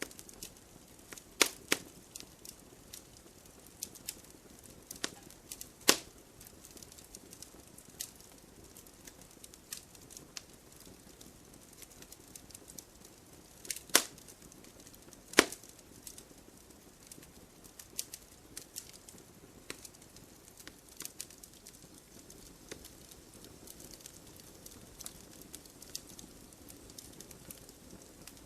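Firewood burning and crackling: irregular sharp pops and snaps, a few of them much louder, over a faint steady hiss.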